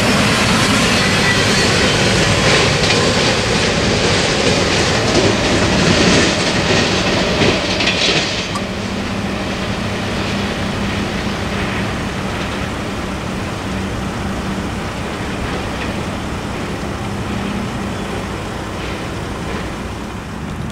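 Norfolk Southern train rolling past steadily. Its high hissing edge drops away about eight seconds in, leaving a duller rumble.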